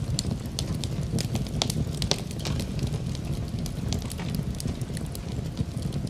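Wood fire in a fireplace crackling, with sharp pops several times a second over a steady low rumble.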